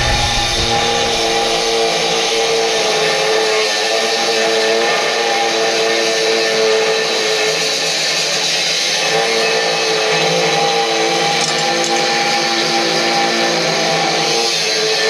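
Electric power tool working steel, running steadily: a constant whine over a wide hiss.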